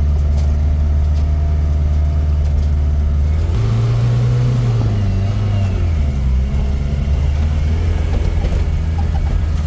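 Motor vehicle engine running steadily with a low drone; about three and a half seconds in its pitch rises briefly, then settles back down by about six seconds.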